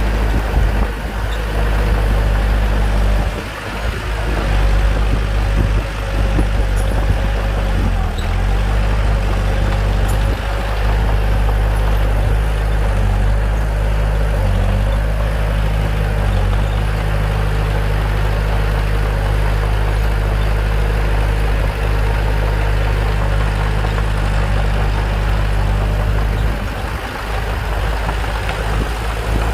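Bulldozer's diesel engine running steadily, a deep, even engine note with a couple of brief dips in level.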